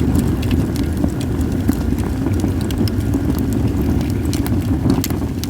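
Wood fire of acacia and mixed firewood crackling, with many small sharp pops, over a steady low rumble of wind on the microphone.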